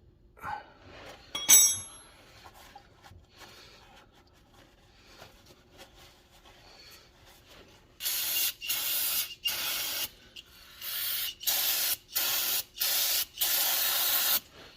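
A metallic clink, then about eight short hissing sprays from an aerosol cleaner can in the second half, as the oil-leak area around the transmission pan is sprayed clean.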